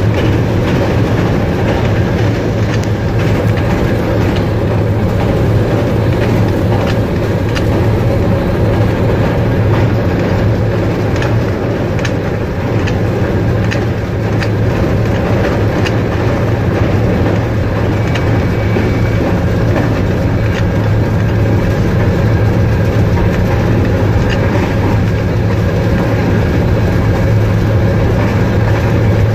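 Train running at speed through a station without stopping: a steady loud rumble of wheels and rails with faint clicking over the rail joints.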